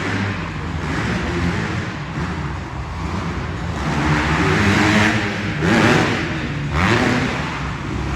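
Dirt bike engines revving and accelerating on an arenacross track, their pitch rising and falling as riders work the throttle, loudest about four to seven seconds in.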